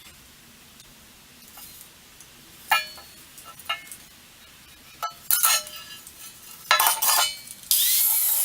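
Steel parts clinking and ringing against each other a few times, then a steady, harsh scraping of metal being worked starts near the end.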